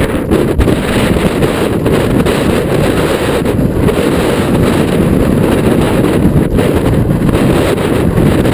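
Strong wind buffeting the microphone during a mountain-bike ride, a loud steady rumble with a few faint clicks.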